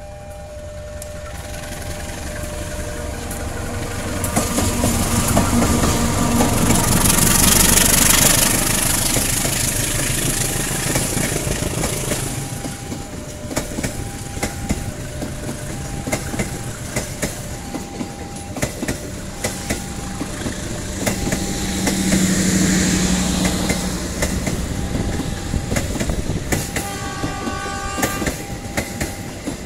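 A KAI CC201 diesel-electric locomotive hauling a passenger train past close by, loudest about eight seconds in. The carriages' wheels then clickety-clack steadily over the rail joints. A short warning tone, typical of a level-crossing alarm, repeats about once a second throughout.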